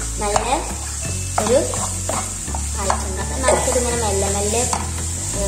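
A capsicum and sauce filling sizzling in a frying pan as it is stirred, with a steady hiss of frying. Background music with a bass line plays over it.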